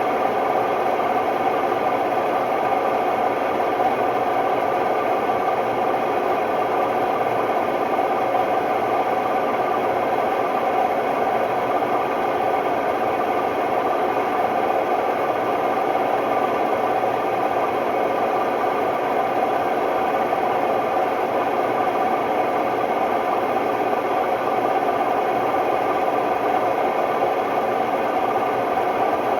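Hotpoint Ultima WMD960 washing machine spinning at a steady speed with an extremely noisy, constant roar from its drum bearings, which the owner takes for bad bearings.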